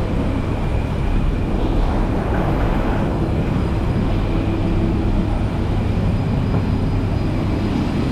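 Steady cabin noise inside an Airbus A320: a low rumble with a constant hum from the aircraft's systems or idling engines.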